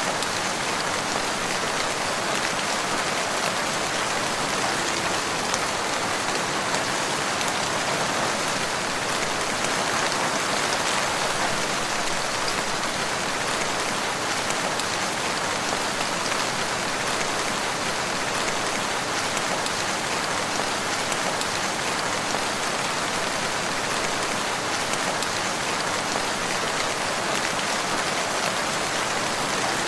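Steady rain falling, a dense even hiss with many fine drop patters on surfaces.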